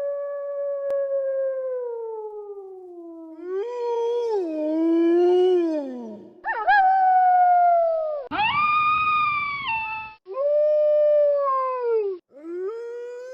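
Wolves howling: a string of long, drawn-out howls one after another, each gliding and falling in pitch at its end. One howl, about two-thirds of the way through, carries a rough, raspy undertone.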